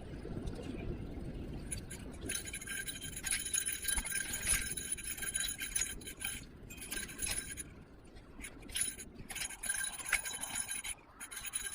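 Metallic jingling and clinking that starts about two seconds in and keeps breaking off and coming back, over a low rumble of wind and road noise.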